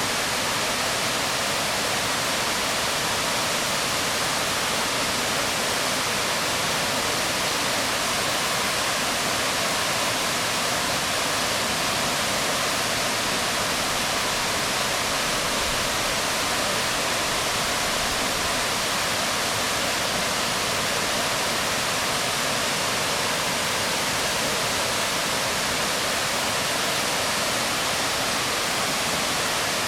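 Waterfall falling onto rocks: a steady, even rush of water that does not change.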